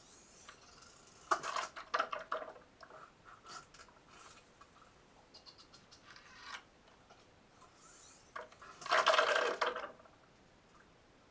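Hydraulic disk-mastering lathe carriage being pushed back and forth by hand to bleed air from its cylinders: scattered small clicks and clatters of the mechanism, then a louder rasping noise lasting about a second and a half near the end.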